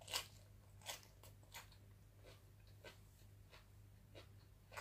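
Faint chewing of a mouthful of braised catfish: soft, wet mouth clicks and smacks, about one every half second to second, over a steady low hum.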